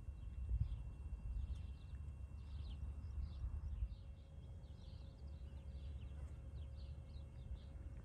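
Small birds chirping faintly, many short chirps a second, over a steady low rumble.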